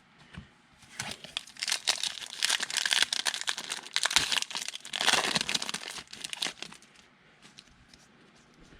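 Plastic wrapper of a Score football trading-card pack crinkling as it is torn open and handled, a dense crackling from about a second in until it dies away near the end.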